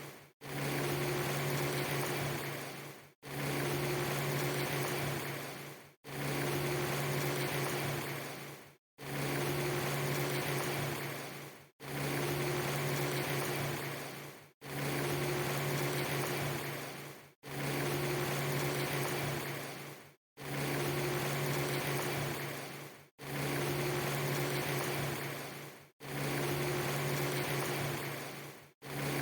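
A short ambience recording of steady rushing noise with a low hum, looped about every three seconds. Each repeat fades down and cuts to a brief silence before it starts again, so the loop is not seamless.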